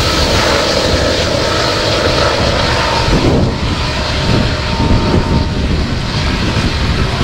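BNSF coal train rolling past: the diesel locomotives, a GE Evolution-series (GEVO) among them, drone as they pull away under power, over the steady rumble of the coal cars' steel wheels on the rails.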